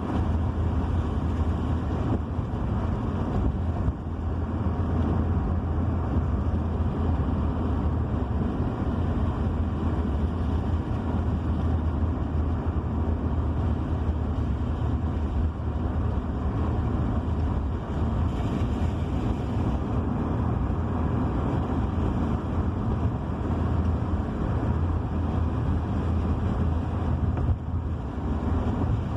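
Steady engine and road noise of a moving car, a constant low hum under a rushing haze.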